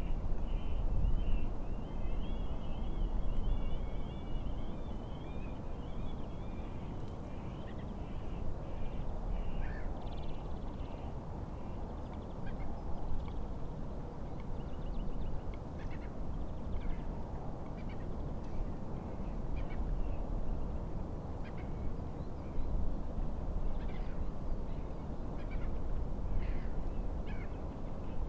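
Birds calling over a steady low wind rumble on the microphone: a fast chattering run of calls through the first several seconds, then scattered short calls.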